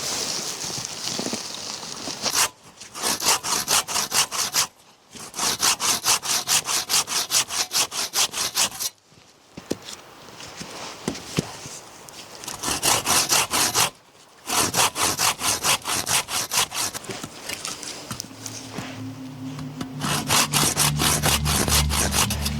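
Handsaw cutting through wood in brisk, regular back-and-forth strokes, in several runs broken by short pauses.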